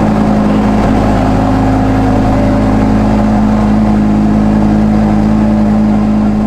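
Audi R8's V10 engine running steadily at an even speed, a constant drone with no revs up or down.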